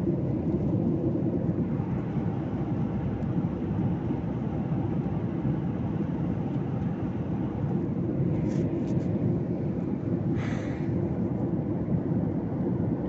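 Airliner cabin noise in flight: a steady low rumble with hiss, with a brief soft hiss about ten seconds in.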